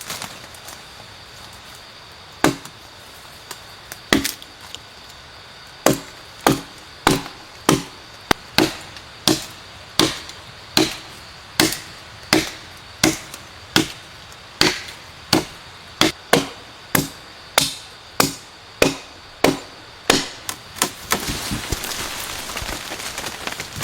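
Wood being chopped with a blade: a couple of lone blows, then a steady run of sharp chops, about three every two seconds. Near the end the chopping gives way to a stretch of rustling and crackling.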